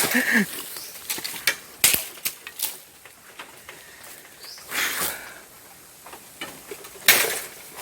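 Thorny bamboo stalks and leaves rustling and scraping, with a few sharp knocks and cracks and two louder rushes of rustling about five and seven seconds in.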